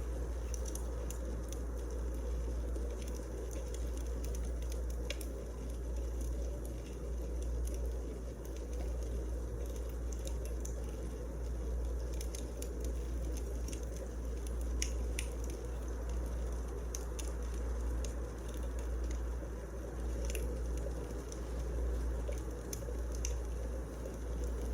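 Wood fire burning steadily, with a low rumble and irregular crackles and pops throughout.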